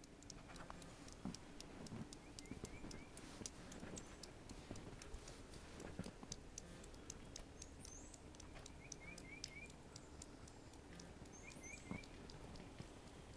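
Faint outdoor quiet with small birds chirping in quick runs of three notes every few seconds, over scattered light ticks and patter.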